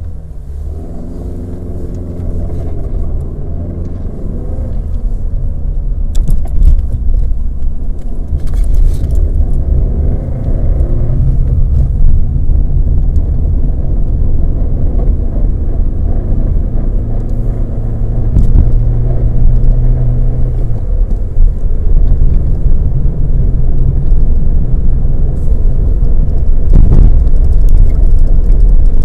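Opel Vectra B's Z16XE 1.6 16-valve four-cylinder petrol engine running with a misfire on cylinder 4 (fault code P0304). A steady low rumble that gradually grows louder.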